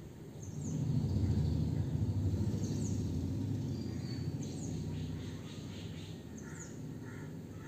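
A bird's short, high, falling chirp repeated about every second and a half, over a low rumble that swells about a second in and fades over the next few seconds.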